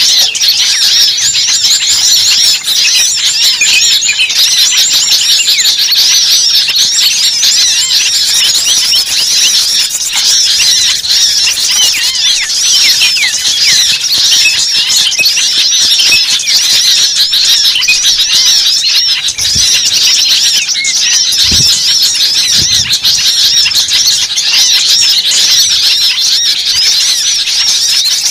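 Many small birds chirping at once in a dense, continuous chorus of overlapping high calls, with a few soft low thumps in the second half.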